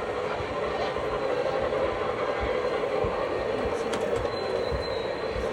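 A train running past with a steady rolling noise and irregular low knocks from the wheels.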